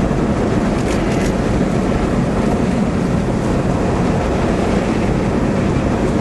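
Steady road and wind noise heard inside a moving car: tyre rumble and engine with air rushing past, with no breaks or changes.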